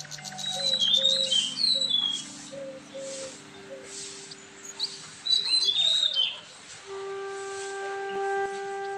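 Birds chirping and calling in short high notes, loudest about a second in and again around six seconds in, over soft background music of long held notes that settle into a steady chord near the end.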